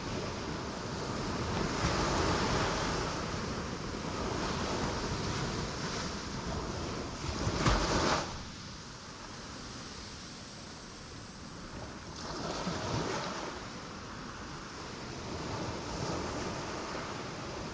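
Ocean waves breaking on rocks: a steady wash of surf that swells as a wave comes in every few seconds, the loudest one breaking sharply about eight seconds in.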